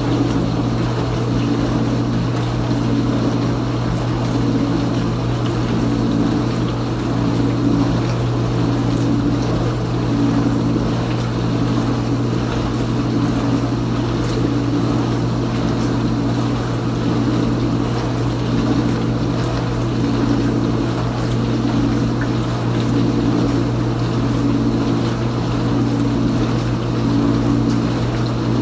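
Kenmore Ultra Wash 3 dishwasher running its wash circulation: a steady low motor hum under a spray of water inside the tub, with a swish that pulses regularly about every second and a half.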